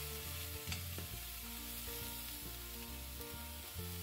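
Salmon fillets sizzling steadily in a little oil in a cast iron skillet, with one sharp click about a second in.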